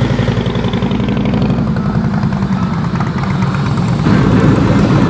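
A vehicle engine running steadily at low speed with a fast, even pulse, getting louder about four seconds in.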